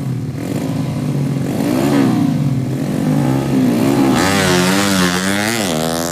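Racing motorcycle engine revving, the throttle blipped so the pitch rises and falls again and again, then held higher and louder for about two seconds near the end before dropping.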